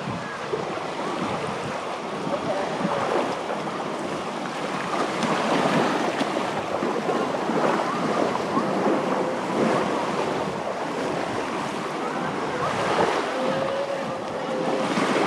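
Surf washing up on a sandy beach: a steady rush of breaking waves.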